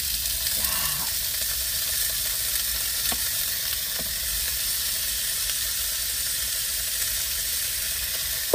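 Meat sizzling steadily in a hot frying pan, with a few light clicks and a sharper click near the end.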